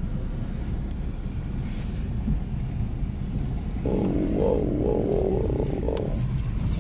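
Car engine and road rumble heard from inside the cabin as the car rolls slowly forward. About four seconds in, a louder, rougher engine note comes in for about two seconds.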